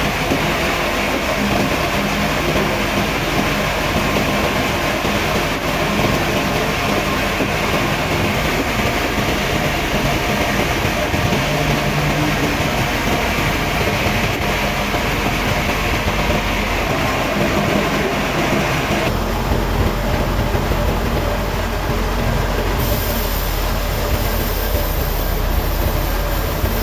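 Sawmill machinery running with a steady, loud mechanical noise. The sound changes abruptly twice, about nineteen seconds in and again a few seconds later.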